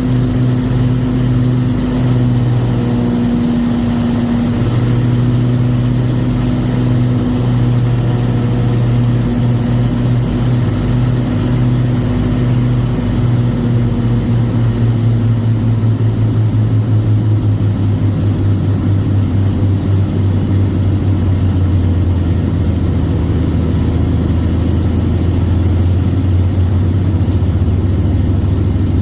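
Avro Lancaster's Rolls-Royce Merlin V12 piston engines running during a pre-flight engine run, at a steady note at first. About halfway through the note drops as the engines are throttled back, with a pulsing beat, and it drops again near the end.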